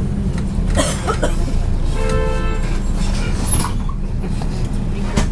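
Steady low rumble of a MAZ-103 bus's engine and running gear heard from inside the cabin. A few short rattling clicks sound about a second in and again near the end, and a brief pitched tone lasting under a second sounds about two seconds in.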